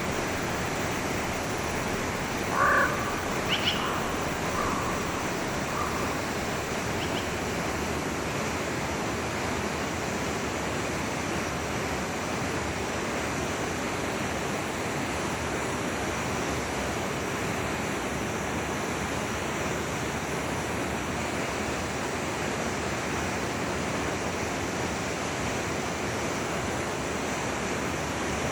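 A forest stream flowing with a steady rush of water. Between about two and seven seconds in, an animal gives a few short calls, the first the loudest.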